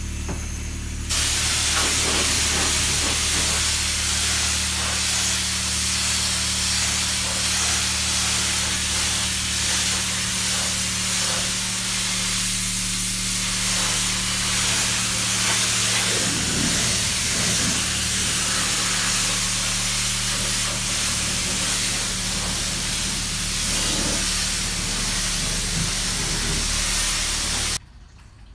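High-pressure spray wand of a self-serve car wash blasting water over a car to rinse it: a loud, steady hiss over the steady hum of the wash's pump. The spray comes on fully about a second in and cuts off suddenly near the end.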